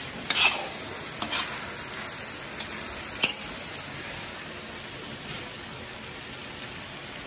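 Chicken curry sizzling in a large black kadai, a steady frying hiss. A metal ladle scrapes and clinks against the pan a few times in the first few seconds as it is stirred.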